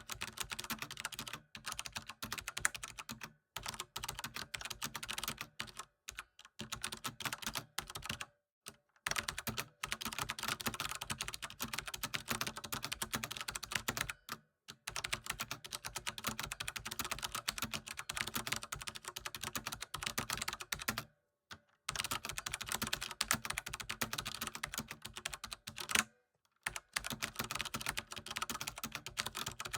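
Computer keyboard typing: rapid runs of key clicks a few seconds long, broken by brief pauses.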